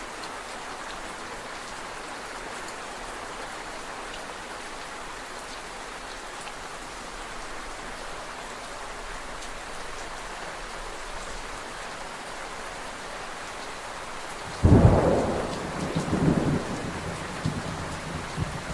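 Steady rain falling, then a sudden loud thunderclap near the end that rumbles on in several low swells.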